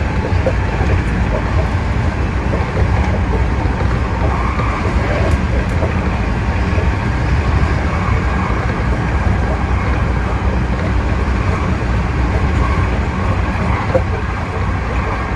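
Hankyu 8000 series electric train running at speed, heard from the driver's cab: a loud, steady rumble of running noise.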